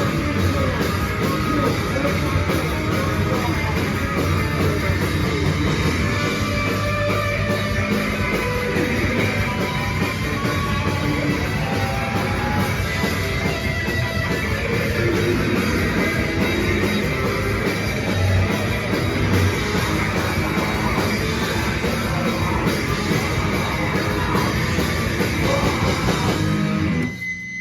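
Live rock band playing at full volume with distorted guitars, drum kit and vocals, the song ending abruptly near the end.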